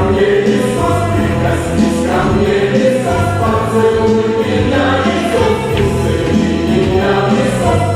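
Choir singing sustained lines over instrumental accompaniment, as in a rock-opera ensemble number.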